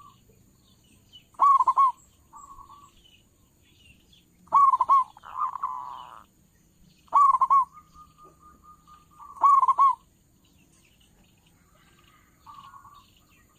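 Zebra dove calling: four loud cooing phrases about two and a half seconds apart, each followed by a softer trailing note, then only faint notes near the end.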